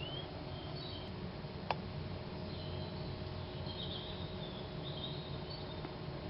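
Small birds chirping: a short rising chirp at the start, then several brief high chirps over the next few seconds. A single sharp click comes just under two seconds in, over a steady low hum.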